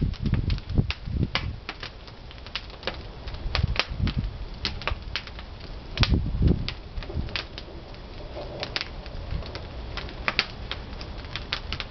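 Pine firewood burning in a traditional wood-fired kiln, crackling with many irregular sharp pops over a low rumble.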